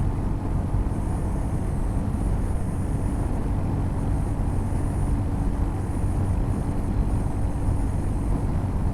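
Royal Enfield Hunter 350's single-cylinder engine running steadily at high speed, about 120 km/h, on an open road.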